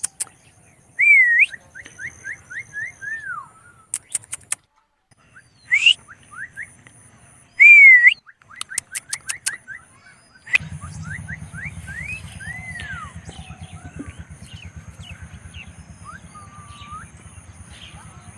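Indian ringneck parakeet chirping and whistling: quick runs of short rising chirps and a few loud whistled notes that rise and fall. A few sharp clicks, and from about halfway through a steady low hum underneath.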